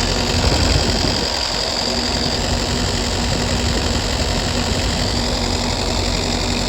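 Kubota KX161-3 excavator's diesel engine idling steadily.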